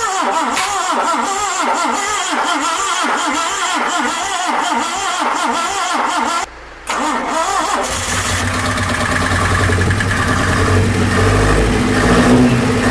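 Starter motor cranking the Contessa's Isuzu 1.8-litre four-cylinder petrol engine with an even, wavering rhythm: a cold start after years of standing, on two batteries and with petrol fed straight into the carburettor. After a short break about six and a half seconds in, the engine catches and runs, growing louder toward the end.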